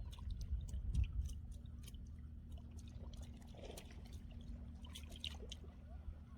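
Water trickling and dripping, with scattered small splashes and ticks over a low steady rumble.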